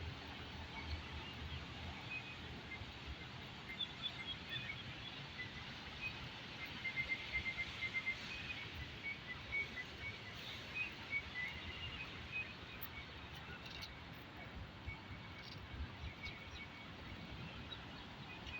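Steady hiss of falling rain with small birds chirping over it, including a quick run of repeated chirps about seven seconds in.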